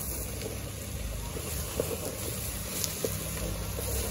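Shredded cabbage frying in cooking oil in an aluminium pot, stirred with a wooden spoon, with a couple of light knocks of the spoon against the pot. A steady low rumble runs underneath.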